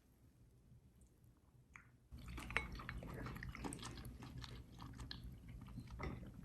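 Close-miked eating sounds: a person chewing and crunching food, with irregular crackles and clicks starting about two seconds in after a quiet opening.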